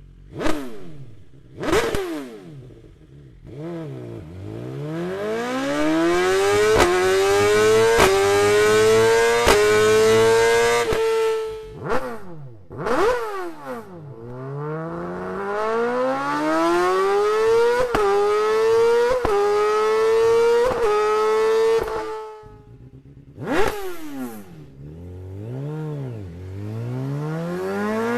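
BMW S1000RR inline-four superbike engine accelerating hard through the gears: the pitch climbs and dips briefly at each quick upshift, with a sharp crack at the shifts. There are three such runs, with quick rev blips before them.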